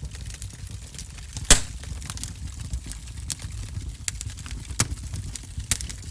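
Fire crackling in a fireplace: a steady low rumble of flames with irregular sharp pops and snaps. The loudest pop comes about one and a half seconds in.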